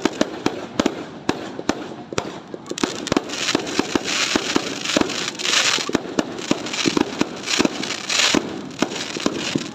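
Fireworks going off in quick succession: many sharp bangs, with a denser hissing spell from about three and a half to eight and a half seconds in.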